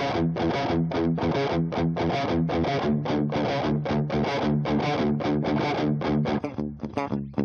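Electric guitar played through the Overloud TH-U amp simulator with a distorted tone, strumming chords in a fast, steady rhythm. About six seconds in, the strumming breaks into shorter, choppier hits with brief gaps.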